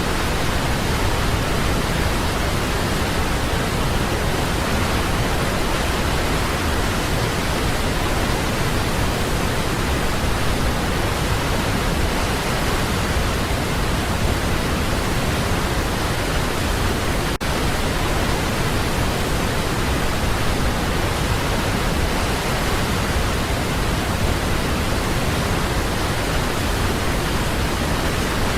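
Waterfall: a steady, dense rush of falling water, with one momentary dropout about two-thirds of the way through.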